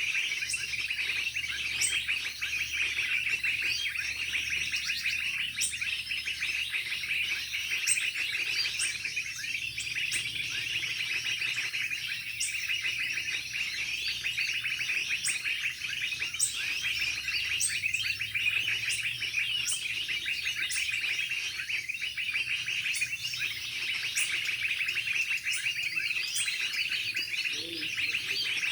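Birds chirping and calling continuously: a dense twittering chatter, with short, sharp high-pitched notes repeating every second or two.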